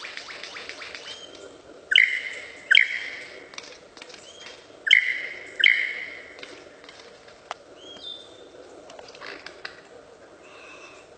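A bird calling. A fast rattle ends about a second in, then come two pairs of loud, harsh calls, each pair a little under a second apart, with a few short whistled notes in between.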